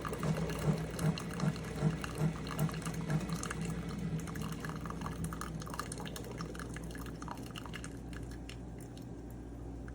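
SIFENE single-serve pod coffee maker finishing a brew: its pump hums in pulses about two and a half times a second while coffee streams and splashes into the cup. After about three seconds the pulsing stops and the flow tapers to a fading trickle and drips.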